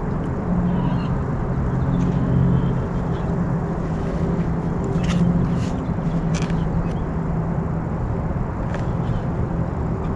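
Primer bulb on a Toro 51936 string trimmer being pressed repeatedly, giving a few short squishy clicks, while the bulb is slow to fill with fuel. A steady low rumble runs underneath.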